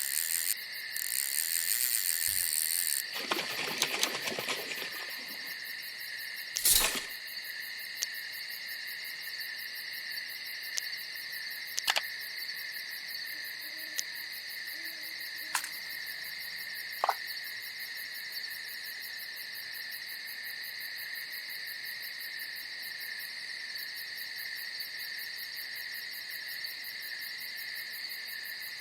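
Night insects chirring in a steady, high-pitched chorus, with a few sharp clicks or knocks, the loudest about seven seconds in, and a brief rustle a few seconds in.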